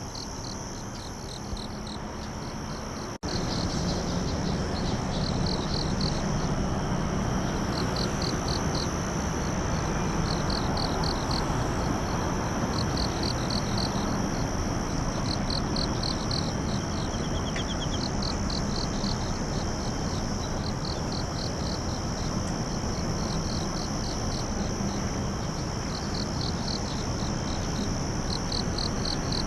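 Night insects calling: crickets chirping in short pulsed groups that repeat every second or so, over a steady high insect trill and a steady background hiss. About three seconds in there is an abrupt cut to a louder stretch of the recording.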